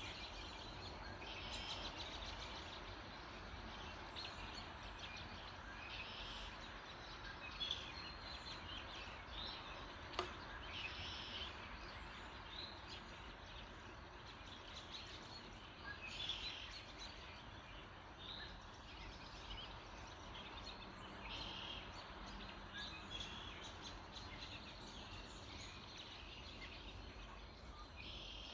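Many birds singing and chirping in a dawn chorus, short calls overlapping, over a steady low background hum. A single sharp click about ten seconds in.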